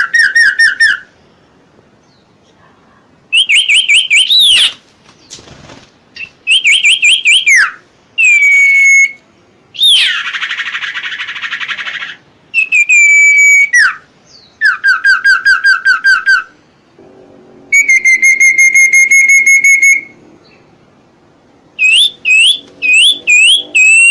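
A songbird singing loud whistled phrases with short pauses between them: quick runs of repeated rising or falling notes, a harsh rasping phrase about ten seconds in, and one long steady whistle a little before twenty seconds.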